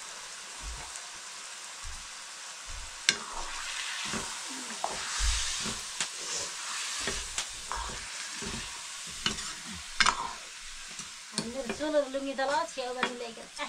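Chicken frying and sizzling in a wok, stirred with a metal ladle, with a few sharp clinks of the ladle against the pan, the loudest about three seconds in and again about ten seconds in.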